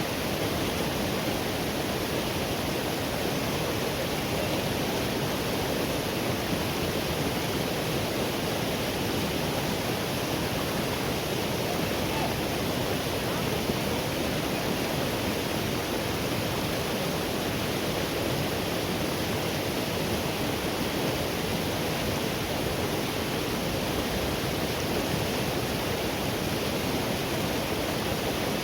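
Forest river flowing in a steady, unbroken rush of water.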